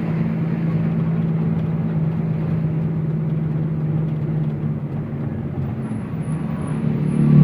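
Truck engine running steadily while driving. Its low hum eases off about halfway through and swells again near the end.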